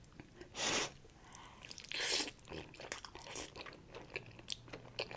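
Close-miked eating of Buldak ramen: chewing with many small wet mouth clicks, and two louder, longer noisy bursts in the first half.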